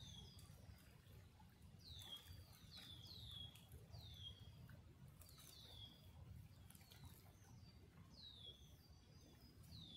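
Faint chirping of small birds: a dozen or so short calls that each slide quickly down in pitch, over a low steady rumble.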